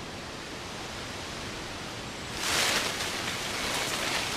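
Steady outdoor hiss, then a louder rustle of leaves and branches coming in about halfway through and lasting a couple of seconds.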